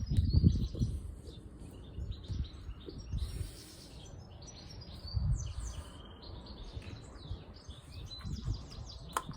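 Small birds chirping and twittering. Low thumps of handling sound at the start and again about five seconds in.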